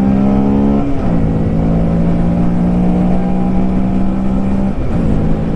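Honda Grom 125's single-cylinder engine running steadily under way, heard from the rider's helmet mic with wind rush. Its note steps down in pitch about a second in, then dips briefly again near the end before holding steady.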